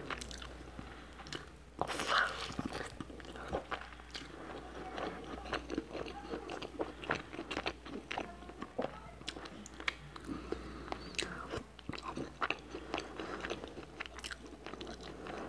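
A person chewing and eating a cheese-topped hamburger patty with rice: close mouth sounds with irregular clicks and smacks throughout.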